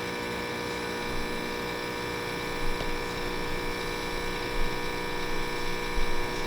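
Steady hum made of several fixed tones from a running espresso machine, with a few light knocks partway through.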